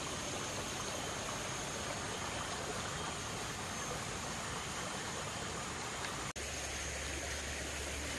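Rainforest stream flowing, a steady rush of water. About six seconds in, the sound cuts briefly and then carries on with a low rumble added underneath.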